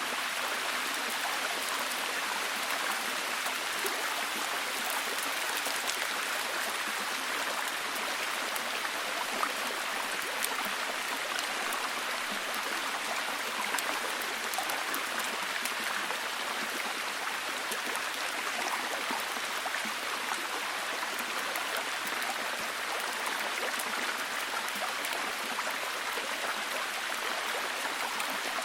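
Steady heavy rain falling, a dense even hiss with many fine drop ticks.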